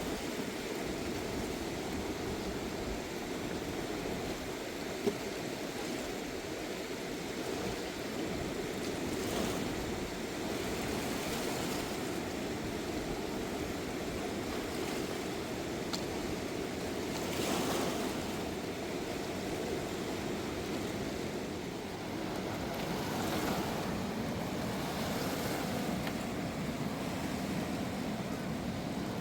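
Steady rush of a swollen river's flowing water, with a few brief louder swishes over it.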